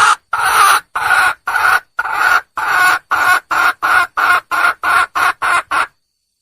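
Junglefowl hen calling: a long, loud call breaks off into a run of about fourteen short calls that come quicker and shorter, then stops about six seconds in. This is a wild hen's call to attract a male.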